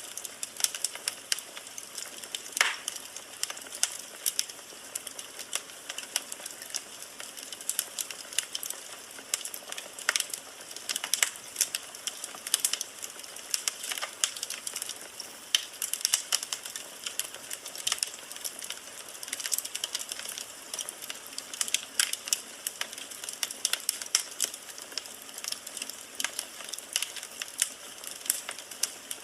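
Firewood burning in a fireplace, crackling with irregular sharp pops over a steady soft hiss.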